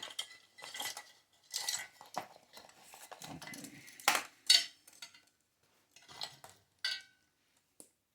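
Metal parts of a gas water heater's burner assembly clinking, scraping and rattling as the old thermocouple is worked out through its hole, with two sharp clanks about four seconds in and a short ringing clink near the end.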